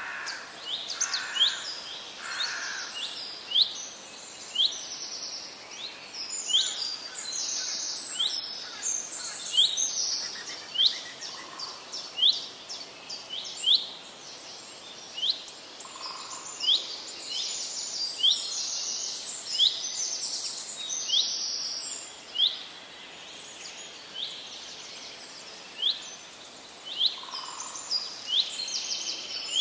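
Birds chirping: a run of short, high chirps that each drop sharply in pitch, about one a second, with bursts of quicker twittering in between.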